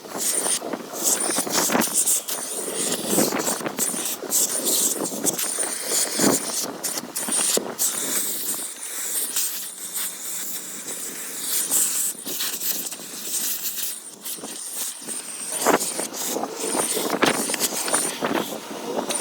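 Car wash vacuum running with a faint high whine, its nozzle scraping and clicking as it sucks sand out of the car.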